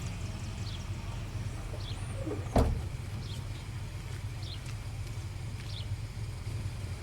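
Steady low hum of an idling car, with short high chirps repeating about once a second and a single sharp knock about two and a half seconds in.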